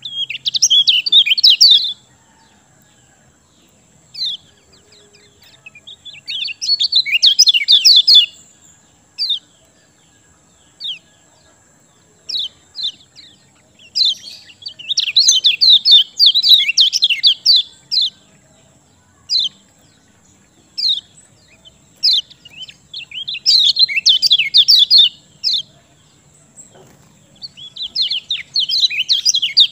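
A kecial kuning songbird singing. It gives about five bursts of rapid, chirping notes a few seconds apart, with single short high notes in between.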